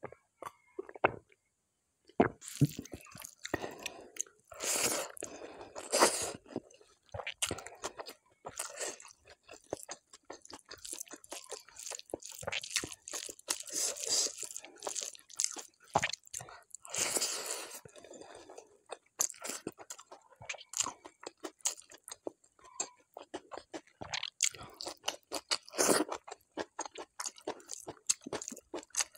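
Close-miked chewing and crunching of a mouthful of food, irregular crisp crackles and mouth sounds starting about two seconds in.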